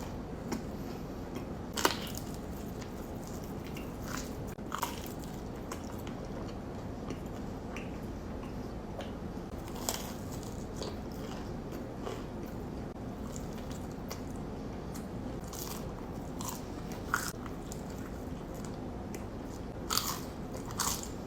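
Close-miked eating: scattered crunchy bites and chewing, with a few sharp crunches standing out over a steady low background hiss.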